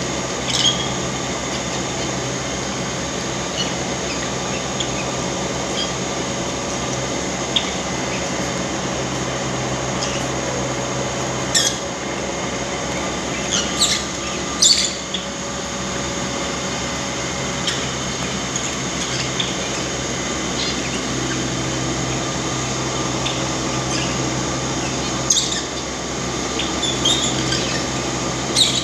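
Pet birds giving short, sharp, high calls now and then, in small clusters, over a steady mechanical hum.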